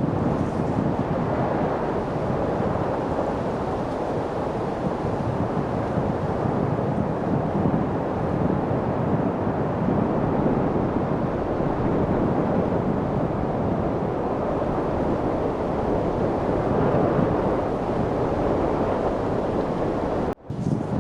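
Steady wind blowing, an even rushing noise without gusts, that cuts out for a split second near the end.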